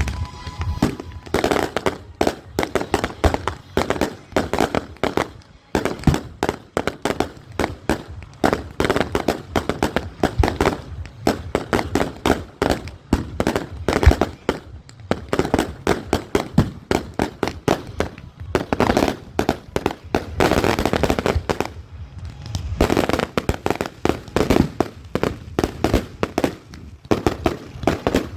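Fireworks display firing: a rapid, unbroken run of bangs and crackling shots, several per second, thickest in volleys a little before two-thirds of the way through and again near the end.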